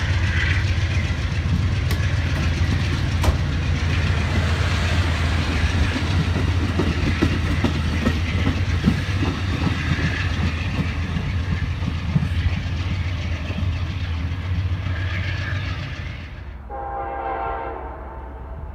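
Shore Line East commuter coaches rolling past at speed: a steady rumble of steel wheels on rail with a few sharp clicks over rail joints. The noise drops once the last car clears, about three-quarters of the way through. A distant train horn then sounds for about a second.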